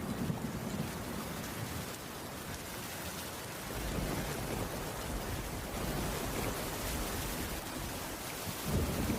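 Steady heavy rain, with a low rumble of thunder swelling about four seconds in.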